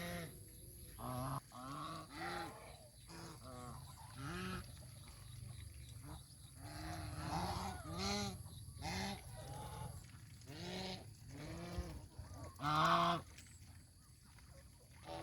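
Geese honking: a string of short calls, one or two a second, some overlapping, with a louder honk near the end.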